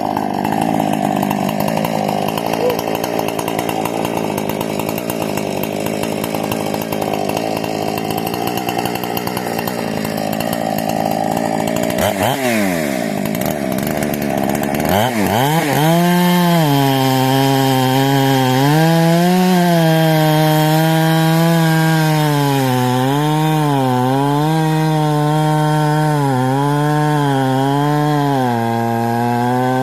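Husqvarna 460 two-stroke chainsaw with a modified carburettor and muffler, running hard, apparently in a cut, for about twelve seconds. Around halfway the revs drop sharply and climb back. It then holds a high, clear engine note whose pitch wavers up and down.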